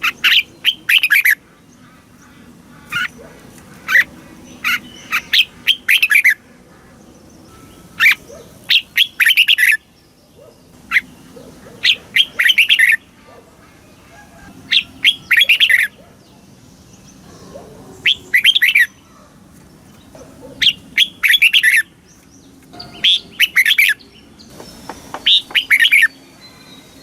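Red-whiskered bulbul singing: short, quick phrases of chirpy whistled notes, coming again every two to three seconds.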